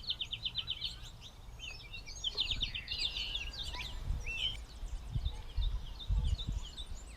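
Gray catbird singing: a long jumble of varied, quick phrases, opening with a rapid run of repeated notes, with low rumbles underneath from a few seconds in.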